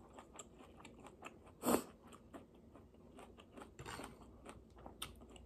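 Close-up chewing of sautéed kale: soft crunching and small wet mouth clicks, with one louder sharp sound a little under two seconds in.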